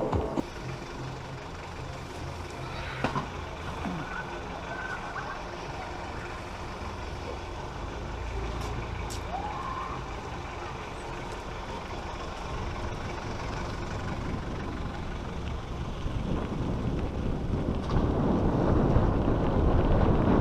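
A heavy vehicle's engine running steadily, with a rising rush of noise over the last few seconds.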